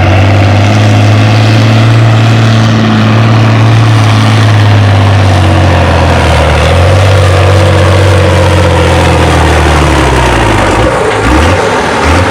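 International Harvester 1066 tractor's diesel engine pulling a tractor-pull sled under full load, loud and steady. Its pitch sags slightly partway through, then drops away about ten seconds in as the tractor runs out of pull, with a couple of short blips of revving near the end.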